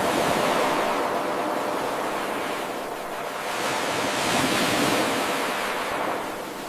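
Ocean surf washing ashore, looped every eight seconds: a wash of water swells at the start, ebbs about three seconds in, builds again to a second swell, and ebbs near the end.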